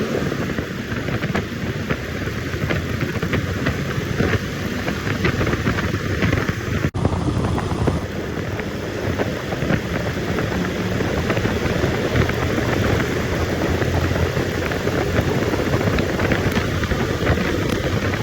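Royal Enfield Himalayan motorcycle being ridden at speed, its engine running steadily under heavy wind noise on the microphone. The sound breaks off for an instant about seven seconds in.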